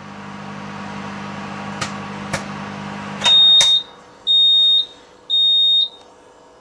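Microwave oven running with a steady hum and two sharp pops, then shutting off and beeping three times to signal the end of its cooking cycle.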